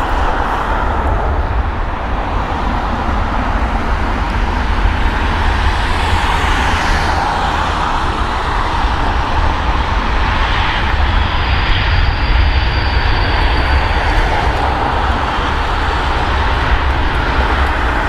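Airbus A380 airliner's jet engines running steadily as it rolls along the runway, a continuous roar over a heavy low rumble. A thin high whine comes in for a couple of seconds about two-thirds through.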